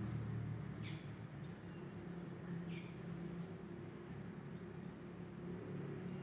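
Two short, quick bird chirps, about a second in and again near three seconds, with a few faint thin high whistles, over a steady low hum.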